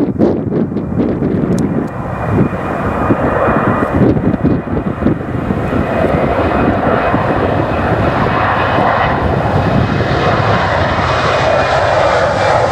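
Airliner's engines rising in a steady, loud rush as the aircraft draws closer, with a faint high whine over it. Wind buffets the microphone in the first couple of seconds.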